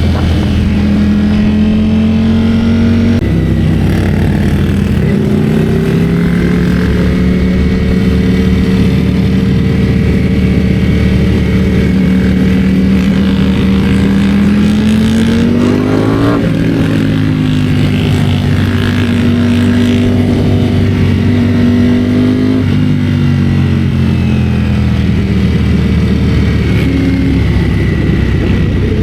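Ducati Streetfighter V4 S motorcycle engine running under way. Its pitch steps down a few times, and about halfway through it climbs steadily and then drops sharply at a gear change.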